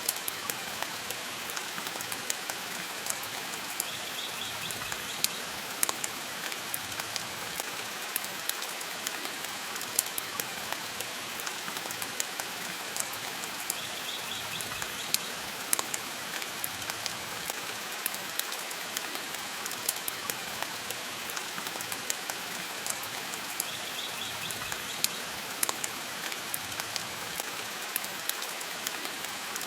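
Steady rain falling, mixed with the frequent sharp crackles and pops of a wood fire burning in a fireplace. A faint high chirp recurs about every ten seconds.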